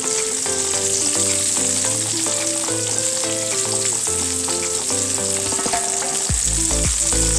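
Halloumi, onion rings and asparagus sizzling steadily in hot olive oil in a frying pan, with silicone tongs turning the food. Background music plays under it: a stepping melody, joined by a heavy bass beat about six seconds in.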